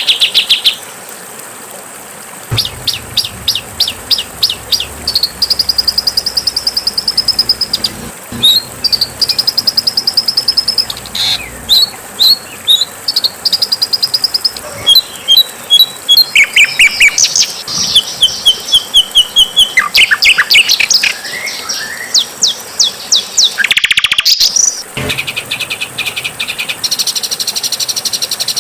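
Songbird song: series of loud, high, rapid repeated chirps and fast trills in varied phrases that switch abruptly from one pattern to the next, with a buzzy sweeping call about three-quarters of the way through.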